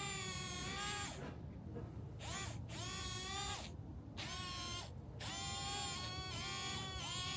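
Toy excavator's small electric motor and gears running with a steady whine, stopping and starting again several times as its movements are worked.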